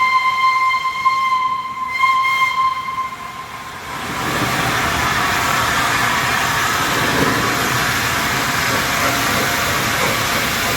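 A1 Peppercorn steam locomotive 'Tornado' sounding its steam whistle in a long blast that ends about three seconds in. From about four seconds in, a steady, loud hiss follows.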